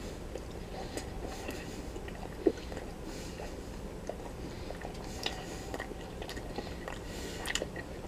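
A person chewing a bite of smoked sausage close to the microphone, with soft wet mouth clicks and one brief louder sound about two and a half seconds in.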